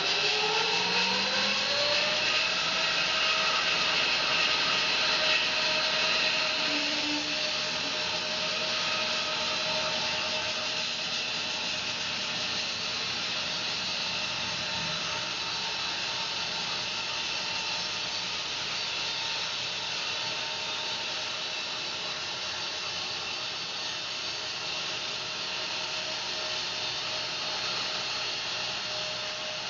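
Home-built bandsaw mill running: a pitched tone rises over the first few seconds and then holds steady, over a continuous hissing noise.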